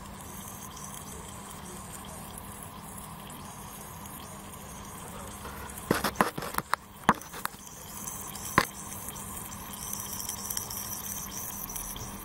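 Faint steady hiss of refrigerant gas escaping past a car A/C compressor's leaking front shaft seal, over a low hum. A few sharp clicks and knocks come about halfway through.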